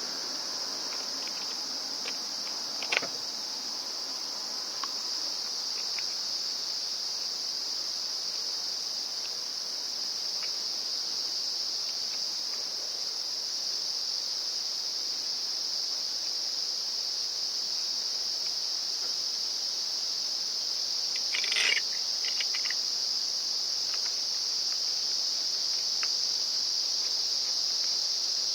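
Steady high-pitched insect chorus, with a sharp click about three seconds in and a short clatter of light clicks about twenty-one seconds in.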